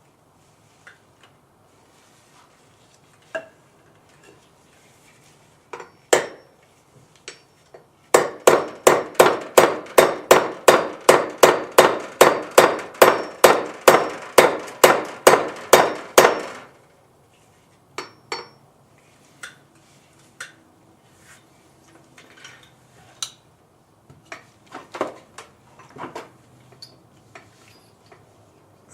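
Hammer driving a steel roll pin through the drive gear and shaft of an HEI distributor: a run of even metal strikes, about three a second, beginning about eight seconds in and lasting some eight seconds. Scattered lighter taps and clinks of metal parts come before and after it.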